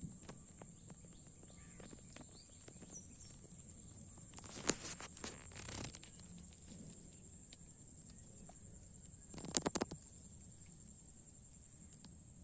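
Steady high-pitched insect chorus, with a few short noisy bursts of rustling or handling about halfway through and again near the end.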